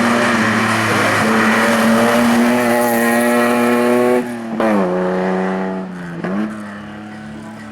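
Hillclimb race car engine held at high revs. About four seconds in the revs drop sharply through gear changes. Near six seconds they climb again while the sound fades with distance.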